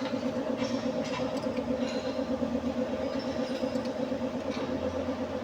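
A steady machine drone with a fast, even pulse, like a motor running without pause, with a few faint light clicks over it.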